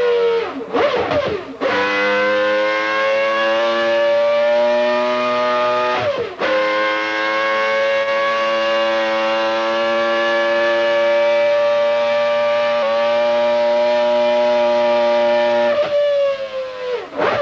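Renault V10 Formula 1 engine on a dyno: a few quick blips of the throttle, then held at high, steady revs with a short drop about six seconds in, and blipped again as the revs come down near the end.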